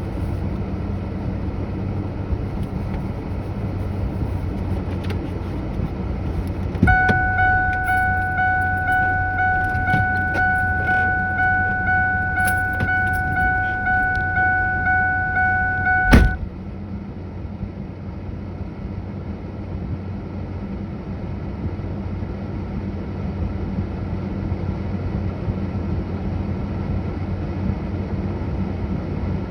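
A 1995 Ford Ranger's 2.3-litre four-cylinder idling steadily, heard from inside the cab. About seven seconds in, a door is opened and the dashboard warning chime sounds steadily. About sixteen seconds in, the door is slammed shut, the chime cuts off, and the idle becomes more muffled.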